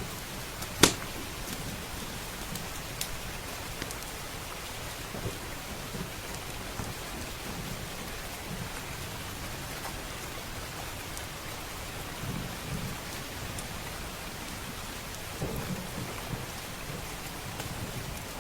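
Steady rain mixed with a crackling wood fire, with one sharp, loud pop about a second in and scattered smaller crackles. Low rumbles of distant thunder come in twice in the second half.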